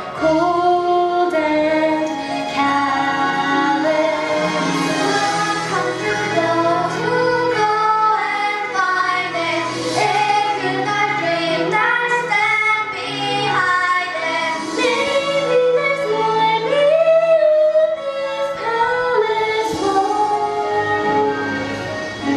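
A young female voice singing a musical-theatre song over instrumental accompaniment.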